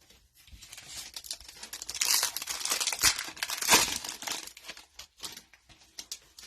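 Plastic foil wrapper of a trading-card pack being torn open and crinkled by hand. The crackling builds, is loudest in the middle and dies away, with a few small clicks near the end.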